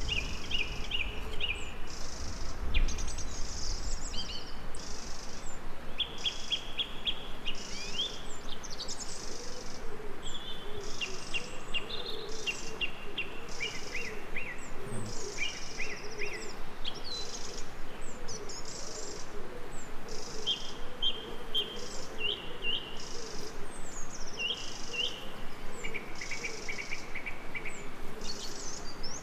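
Birds singing in short chirping trills over a high insect chirr that pulses about every second and a half, with a steady background hiss of outdoor ambience.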